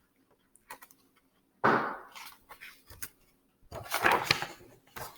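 Paper rustling as a picture book's page is handled and turned: a sudden rustle about a second and a half in, then a longer rustle near the end.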